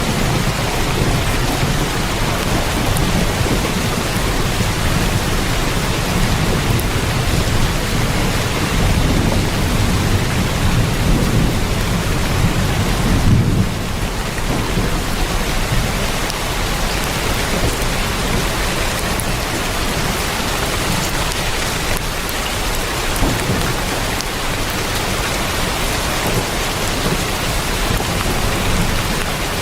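Heavy rain drumming steadily on a tin roof, a dense even hiss, with a deep low rumble underneath that drops away about halfway through.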